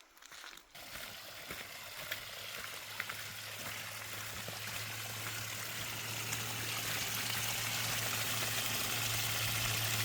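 Running water of a small desert spring trickling and splashing, an even rushing hiss that starts about a second in and grows steadily louder as it is approached.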